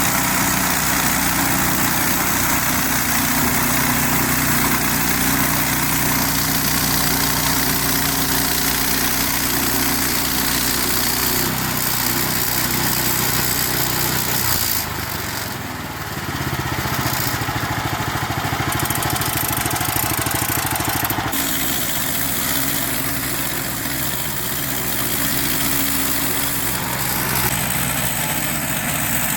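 Hudson Patriot portable band sawmill's engine running steadily while sawing a log. Its sound shifts for several seconds about halfway through.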